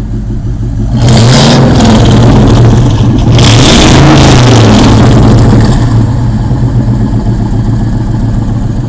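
1997 Ford Explorer engine on straight pipes, idling and then revved twice, each rev held for about two seconds, before dropping back to idle.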